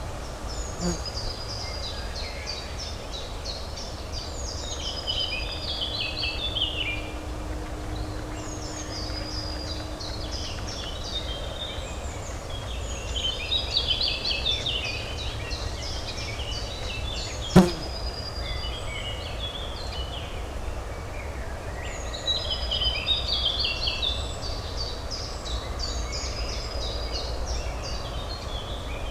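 Songbirds singing in repeated bouts of quick chirps over a steady low urban hum. A single sharp click a little past the middle is the loudest moment.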